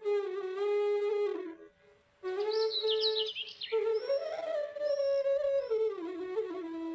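Background music: a slow, sliding flute melody with bird chirps mixed in, pausing briefly about a second and a half in.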